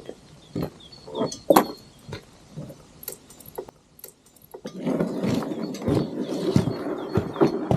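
A few scattered knocks and clinks, then from about halfway in a crowd of sled dogs barking together.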